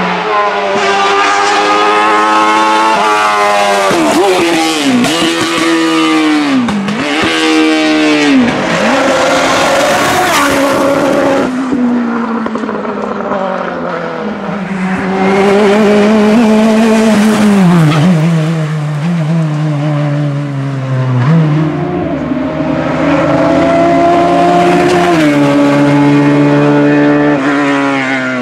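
Hillclimb race car engines at high revs, climbing in pitch through each gear and dropping sharply at the shifts, with quick rev drops around the middle as the cars brake and change down.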